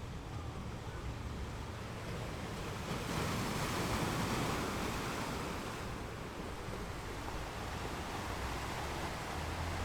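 Ocean waves breaking on a beach, one wave swelling and washing in about three seconds in and easing off a few seconds later.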